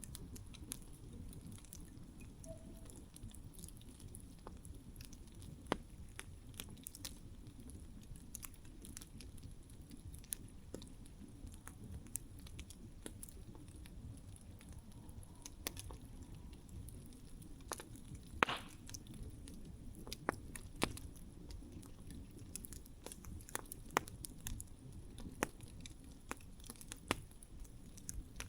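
Wood campfire burning, with a steady low rumble of the flames and scattered sharp crackles and pops; one louder pop a little past the middle.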